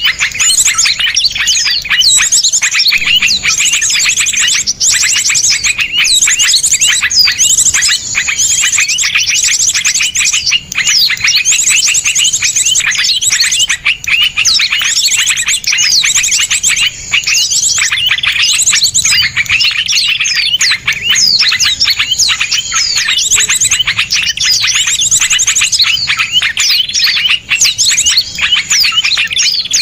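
A dense, continuous chorus of small songbirds: many quick, sharp chirps and trills overlapping without a break. These are the rapid 'shot' calls used as masteran to teach songbirds.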